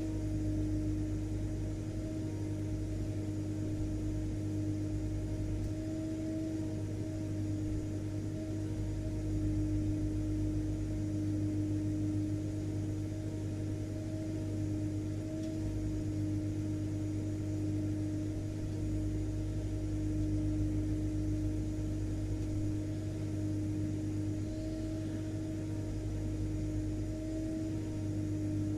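Vacuum cleaner running steadily: an even motor hum at one fixed pitch over a constant rush of air, with no change in speed.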